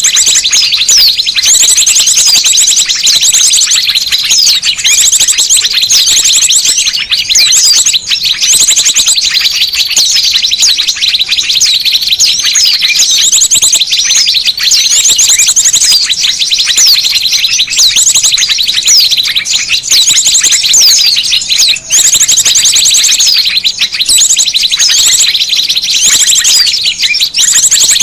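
Dense, non-stop chorus of many small birds chirping and trilling over one another, loud and high-pitched: a noisy bird-lure recording used to call small birds in.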